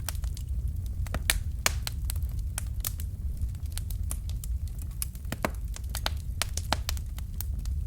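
Fire burning in a fireplace, crackling with frequent irregular sharp pops and snaps over a low steady rumble.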